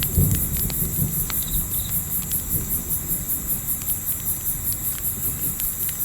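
Crickets chirping in a steady, evenly pulsing high trill, with a campfire crackling in scattered sharp pops over a low rumble.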